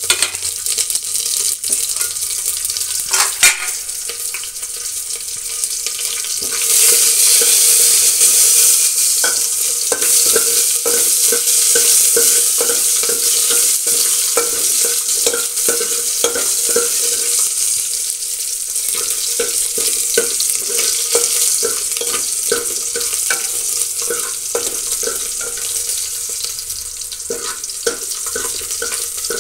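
Onion, curry leaves and mustard seeds sizzling in hot oil for a tempering, the sizzle growing louder about seven seconds in, while a metal ladle scrapes and knocks against the pot as they are stirred.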